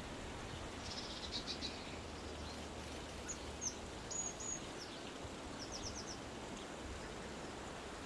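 Small birds chirping over a steady outdoor hiss: a short trill about a second in, a few high chirps around the middle, and a quick run of notes near six seconds.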